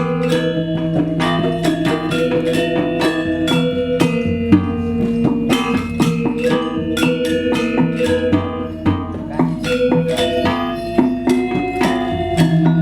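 Balinese gamelan accompanying a Legong dance. Bronze metallophones play fast interlocking struck notes that ring on, over a sustained low gong-like tone, with deeper drum strokes in the middle.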